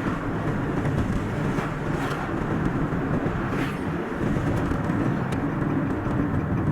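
Car driving on a road: steady engine and tyre noise.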